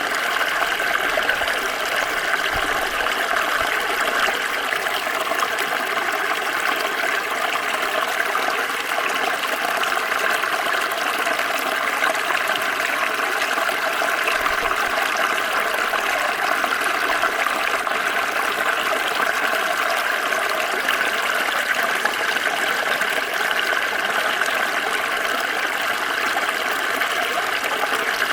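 Small stream flowing steadily over rocks, a continuous rushing and trickling of water.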